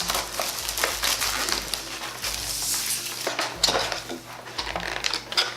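A cardboard box of Kinder Surprise eggs being opened by hand: crackling and tearing of the packaging, with many small clicks and knocks as the eggs are handled.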